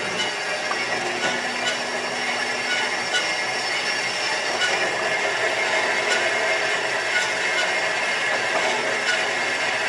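Electric grinder running steadily against metal, a constant high whine with a rough grinding hiss.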